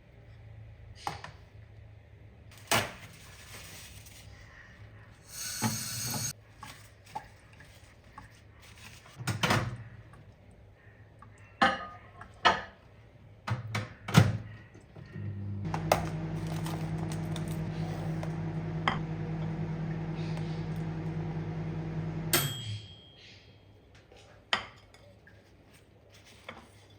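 Dishes and cutlery clinking and knocking as plates are handled, then a microwave oven hums steadily for about seven seconds and stops abruptly, followed by a short high beep.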